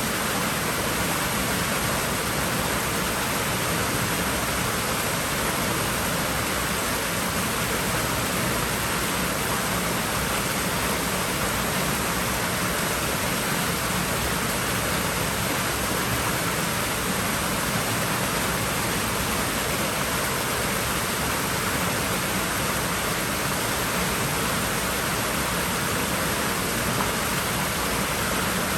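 Steady, even rush of water at a swimming pool, with no splashes or other breaks.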